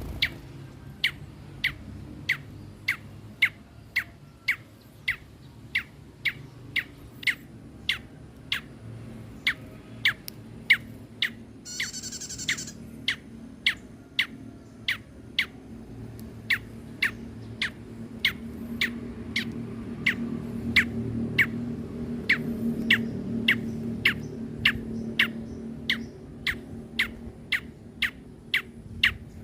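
A red-headed prenjak, a small songbird, giving short sharp chip calls over and over, about two a second, with one brief buzzy rattle about halfway through. A low rumble runs beneath, louder in the second half.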